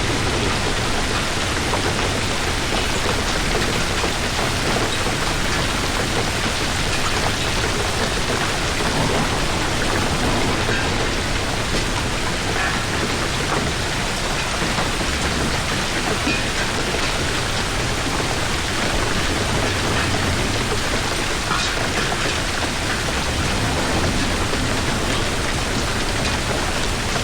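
Hailstorm: a steady hiss of heavy rain and hail falling on hard surfaces, with a few sharper individual hits.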